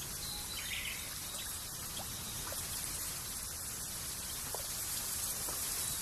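Rural nature ambience: a steady hiss with a few brief, faint bird chirps and insect ticks scattered through it.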